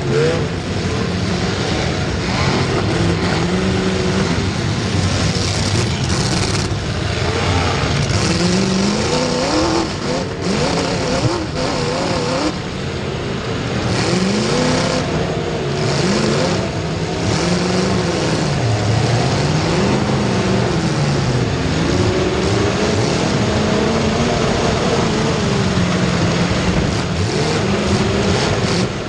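Race car engines running hard, revving up and dropping back again and again, the pitch rising and falling every couple of seconds as the cars accelerate and lift off.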